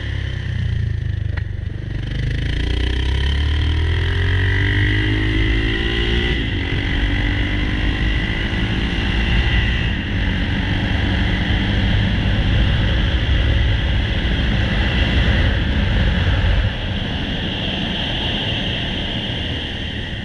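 Yamaha XT600's single-cylinder four-stroke engine under way, climbing in pitch as it accelerates, with the pitch dropping at gear changes about six and ten seconds in. Near the end the throttle closes and it turns quieter.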